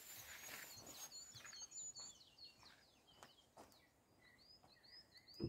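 Songbirds singing faintly: a run of quick high chirps, then a repeated curved whistle phrase in the second half. A short low thump comes at the very end.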